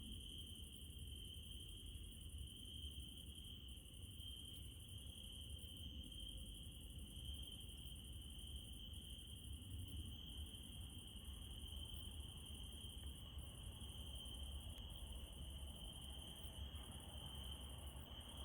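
Crickets chirping in a steady, unbroken high trill, with a faint low rumble underneath.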